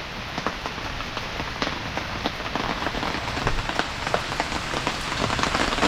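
Heavy rain falling steadily, with many individual drops ticking sharply on a close surface; it grows a little louder near the end.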